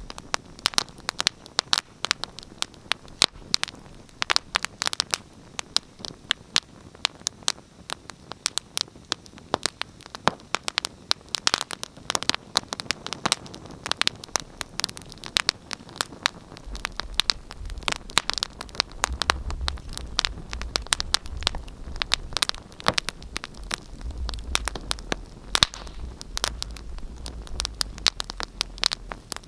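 Wood fire in a fireplace crackling, with many sharp pops and snaps at an uneven rate over a soft hiss. A low rumble joins about halfway through.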